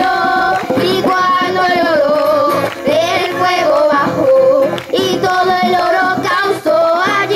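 Voices singing a song with music.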